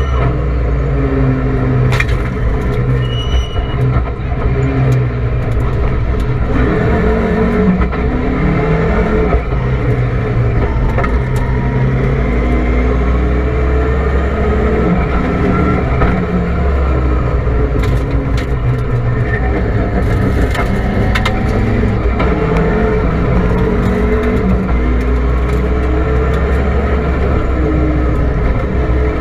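Rally car engine heard from inside the cabin, running hard under load. Its pitch climbs and drops again and again through acceleration and gear changes, with a few sharp cracks.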